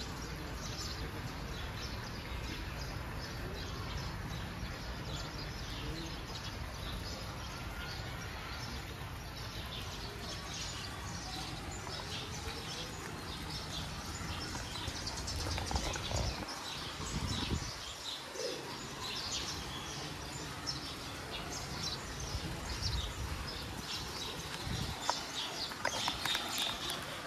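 Small birds chirping, many short high calls, busier in the second half, over a steady low background hum.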